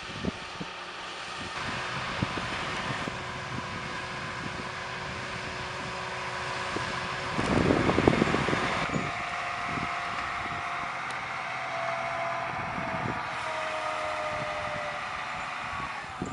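John Deere 7280R tractor's diesel engine running steadily under load while pulling a big multi-furrow plough, swelling loudly for a moment about halfway through, with a slowly falling whine afterwards.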